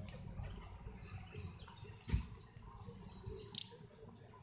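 Small birds chirping intermittently in the trees, over a low rumble, with a dull thump about two seconds in.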